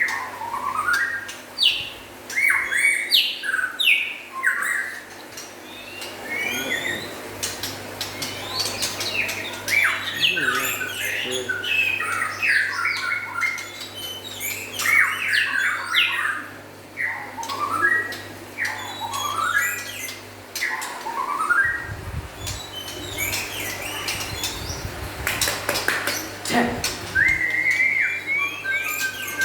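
White-rumped shamas (murai batu) singing a lively, continuous run of short varied whistled phrases that glide up and down, with scattered sharp clicks among them.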